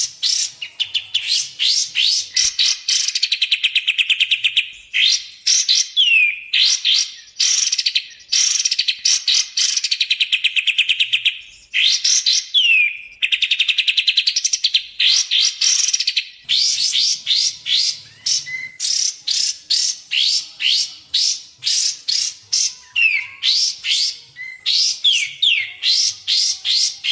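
Recorded cage-bird song of the kind used for masteran tutoring: fast runs of sharp, high, upswept chirps, several seconds-long buzzy trills, and a few down-slurred whistled notes.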